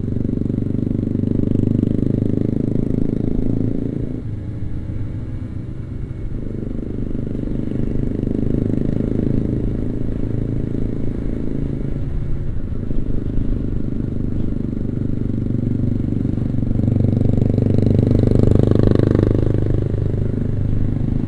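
Kawasaki Ninja RR 150 two-stroke single-cylinder motorcycle engine running under way, louder for a few seconds near the end.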